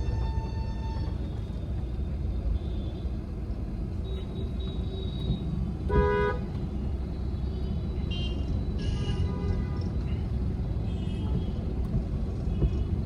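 Steady low road and engine rumble heard inside the cabin of a moving Volkswagen Vento 1.5 TDI. A short vehicle horn toot sounds about six seconds in, with fainter horn-like tones near the start and around nine seconds.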